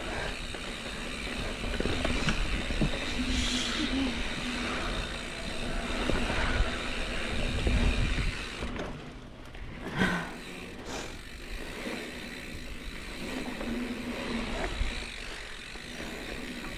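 Mountain bike riding down a dirt trail: tyre noise and wind rushing over the microphone, with a low steady buzz that comes and goes and a sharp thump about ten seconds in.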